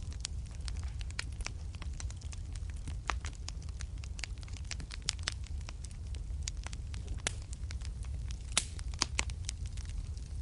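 Wood fire crackling in a fireplace: frequent sharp pops and snaps over a steady low rumble, with a few louder pops about eight and a half to nine seconds in.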